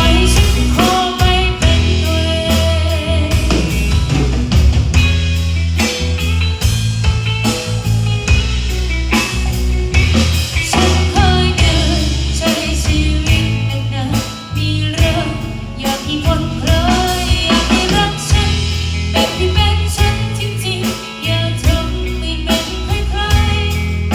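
Live band playing during a sound check: drum kit, heavy bass and a melody line, loud and without a break.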